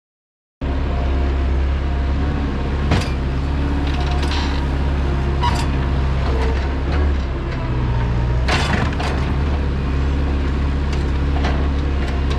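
A vehicle engine running at a steady speed, starting abruptly after a brief silence, with a few sharp clicks and creaks from the machinery about 3, 5½ and 8½ seconds in.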